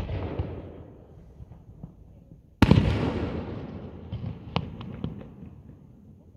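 Aerial fireworks shells bursting: a loud bang at the very start and a bigger one about two and a half seconds in, each trailing off in a long rumble, with a few sharp crackling pops after the second.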